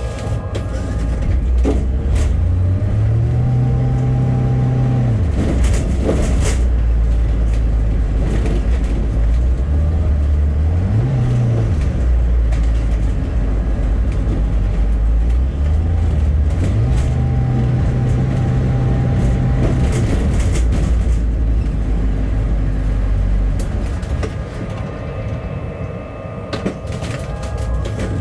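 A bus's engine heard from inside the bus, a steady low drone that rises in pitch and falls back three times as it accelerates and shifts gear, with scattered rattles and knocks from the interior. It quietens a few seconds before the end.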